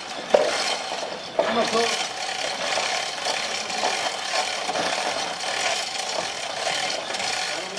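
A hand tool working wood with steady rasping strokes, with a sharp knock about half a second in and another about a second and a half in.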